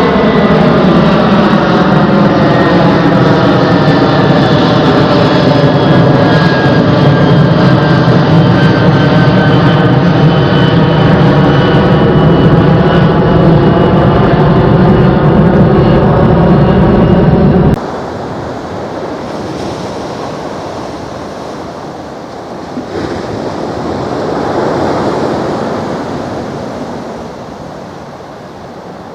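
Boeing 767 freighter's jet engines at takeoff power going past close by: a very loud, steady rumble with whining tones that slowly fall in pitch. About eighteen seconds in it cuts to a much quieter airport scene, with a wind-like rush that swells and fades.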